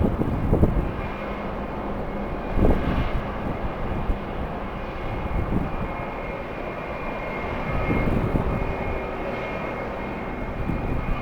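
Jet airliner engines running with a steady high whine, while gusts of strong wind buffet the microphone, one strong gust about three seconds in.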